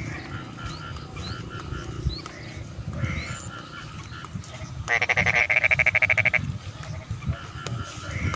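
Paddy-field frogs calling: a background chorus of short, repeated croaks and chirps. About five seconds in, one loud, rapid rattling call lasts about a second and a half.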